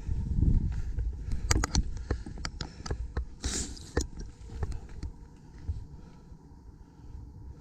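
Mountain bike clattering and rattling over rough trail, many short knocks, with wind rumbling on the microphone. A brief hiss comes about three and a half seconds in.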